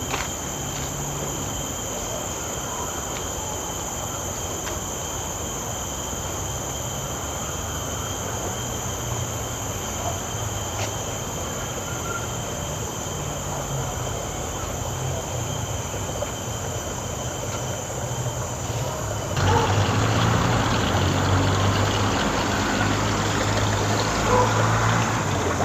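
Outdoor ambience: a steady low rumble with a faint, continuous high insect drone. About nineteen seconds in, it jumps to a louder, fuller rushing noise.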